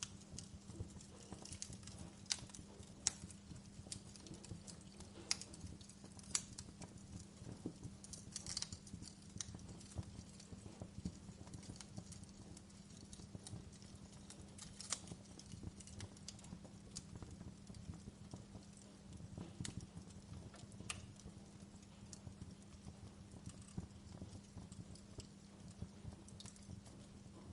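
Log fire crackling: irregular sharp pops and snaps from burning wood, a few louder ones standing out, over a low steady hum.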